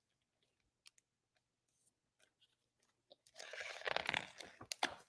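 About three seconds of near silence, then a faint rustle with small clicks lasting about a second and a half: the pages of a picture book being turned.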